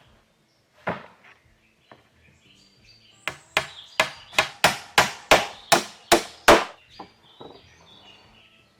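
Hand tool striking wood: a single knock, then a quick run of about a dozen sharp blows, three or four a second.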